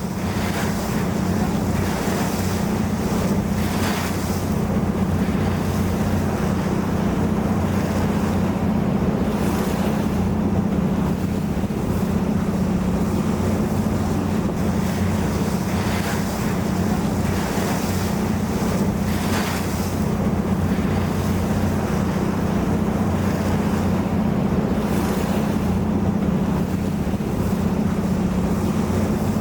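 A yakatabune houseboat's engine running with a steady low hum, with water rushing past the hull and wind buffeting the microphone in occasional gusts.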